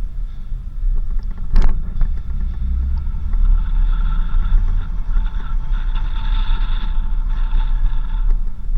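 4x4 vehicle driving on a dirt road, a steady low rumble of engine and tyres. A sharp knock comes about a second and a half in, and a higher-pitched sound runs over the rumble from about three and a half seconds until just before the end.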